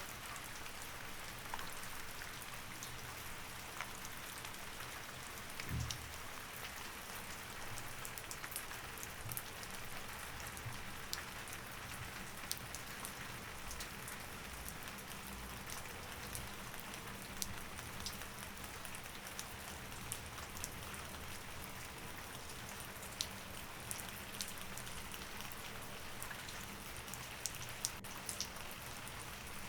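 Steady rain, with scattered sharp drip ticks and a single low thump about six seconds in.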